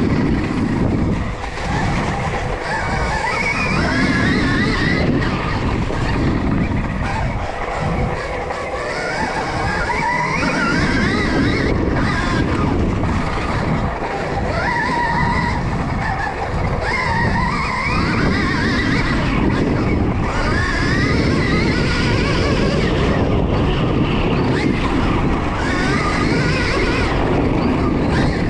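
Stark Varg electric motocross bike ridden hard, heard onboard: its motor whine rises and falls over and over with the throttle, over a constant rush of wind, knobby tyres and chassis rattle.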